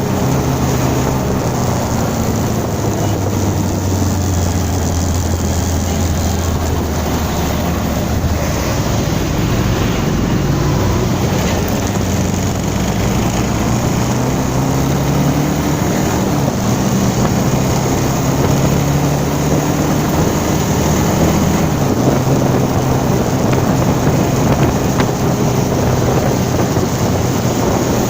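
Motorcycle engine running while riding, its pitch slowly rising and falling with engine speed, under heavy wind noise on the microphone.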